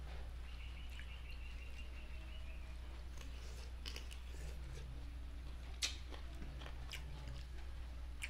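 Close-up mouth sounds of a person chewing and biting boiled sweet potato tops and rice eaten by hand, with wet clicks and smacks, the sharpest about six seconds in. A faint high chirping runs for about two seconds soon after the start, over a steady low hum.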